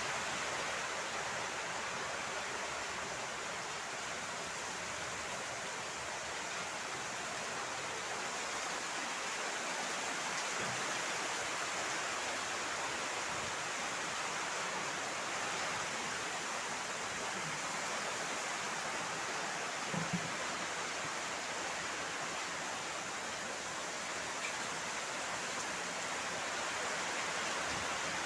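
Heavy rain falling in a steady, even downpour. There is one brief low knock about two-thirds of the way through.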